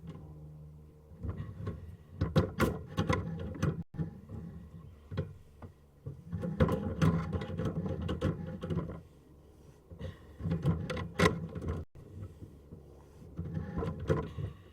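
Sewer inspection camera's push cable rattling and scraping in the drain line in about four irregular bursts of clicks and clatter, with quieter gaps between.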